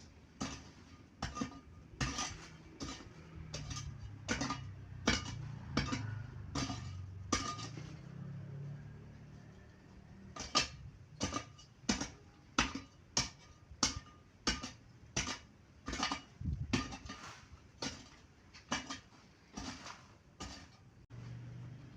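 A hand tool striking repeatedly with sharp, clinking blows, about one to two a second, pausing briefly around the middle.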